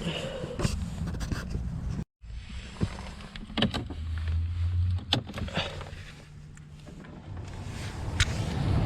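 Heater blower fan of a Mercedes C-Class W204 running on test after its rotor bushings were cleaned, a low steady hum with several sharp clicks. The hum grows louder near the end as the fan speed goes up.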